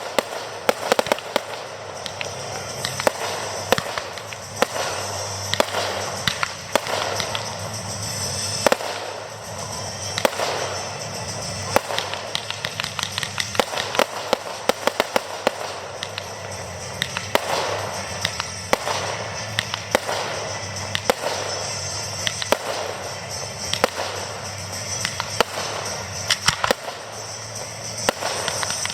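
Aerial fireworks going off in rapid succession: many sharp bangs and crackling bursts, some in quick clusters, without a break.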